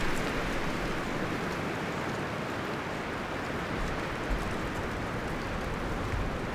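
Wind blowing through forest trees: a steady rustling of leaves and branches with a low rumble of gusts, easing slightly in the first second, then holding even.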